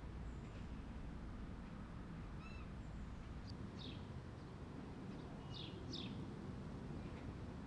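A few short, falling bird chirps over a steady low outdoor rumble.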